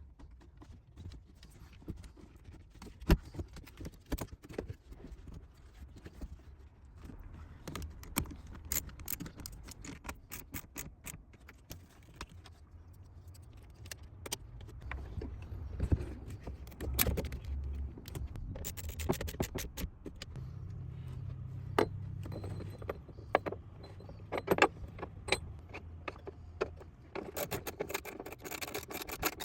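Metal hand tools clinking and knocking as battery bracket bolts and terminal nuts are worked with wrenches: an irregular run of sharp clicks and clanks.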